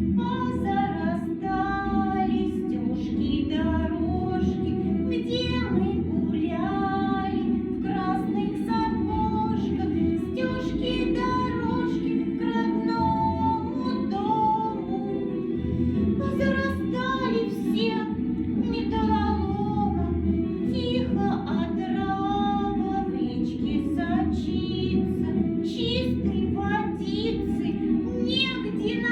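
A song sung over instrumental accompaniment, with a sung melody line running throughout.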